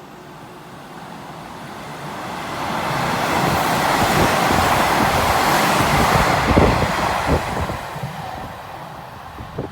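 Nishitetsu 3000 series electric train passing through a station at speed without stopping: a rushing rumble that builds, peaks in the middle and fades, with a series of sharp wheel clacks as the cars go by in the second half.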